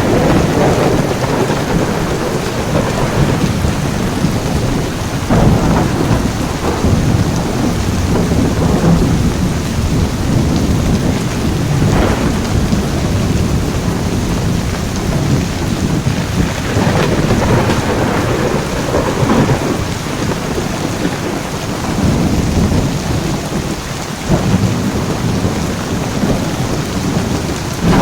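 Heavy rain falling steadily in a thunderstorm, with thunder rumbling low several times underneath the rain.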